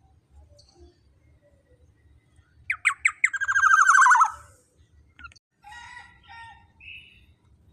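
Black-naped oriole calling: three short, sharp notes about three seconds in, then a loud, harsh, rasping call lasting about a second, with fainter calls a little later.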